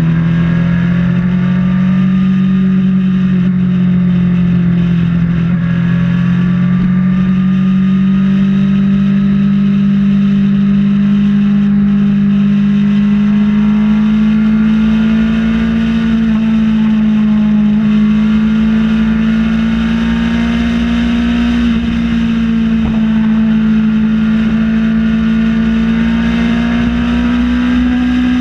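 Kawasaki ZX-6R's inline-four engine running at steady high revs on the move, loud and continuous, its pitch creeping slowly upward as the revs build.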